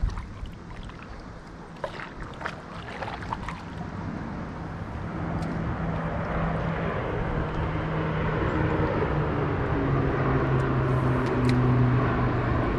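A motor's steady hum builds louder over several seconds and dips slightly in pitch near the end, after a few light knocks in the first seconds.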